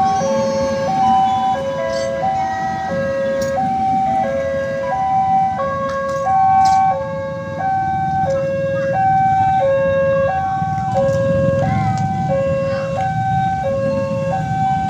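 Railway level-crossing warning alarm sounding a steady electronic hi-lo two-tone, each tone held about two-thirds of a second. Under it is a low rumble that swells in the second half.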